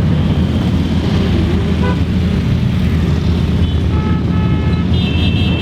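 Many motorcycle engines running together as a parade rides past, a dense steady rumble, with short horn toots from about four seconds in.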